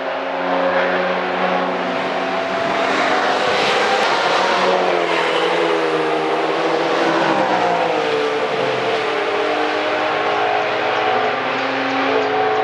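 High-revving engines of fast cars passing by, several engine notes overlapping; the pitch falls steadily about seven to nine seconds in as a vehicle goes past, and another engine rises near the end.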